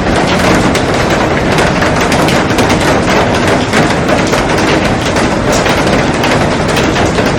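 Heavy rain falling on a glass roof and garden: a loud, steady hiss dense with the pattering of countless drops hitting the glass.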